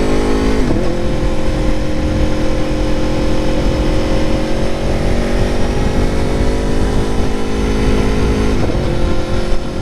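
Aprilia Tuono motorcycle engine running steadily while riding, its pitch briefly shifting about a second in and again near the end, with wind rumble on the microphone underneath.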